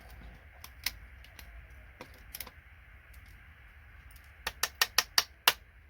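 Sharp little clicks of gold-plated connector pins being pulled and snapped out of a computer connector: a few scattered single clicks, then a quick run of about six loud ones near the end.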